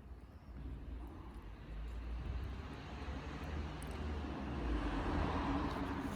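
Low rumbling noise of a passing vehicle, swelling to a peak about five seconds in and then easing off.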